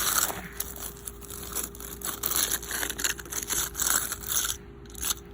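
Footsteps crunching through icy snow and sleet: an irregular run of crunches, loudest at the start and thinning out near the end.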